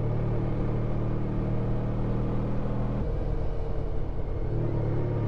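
Honda ST1300 Pan European's V4 engine running steadily as the motorcycle is ridden along a mountain road. About three seconds in the engine note drops away for a second or so, as if the throttle is eased, then picks up again.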